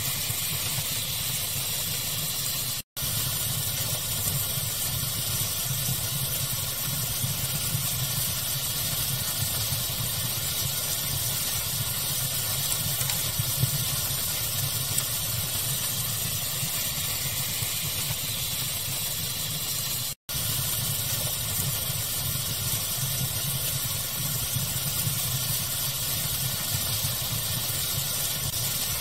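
Steady rushing pink noise mixed with a crackling fire, with a few faint crackles standing out. The sound drops out for an instant twice, about 3 seconds and 20 seconds in.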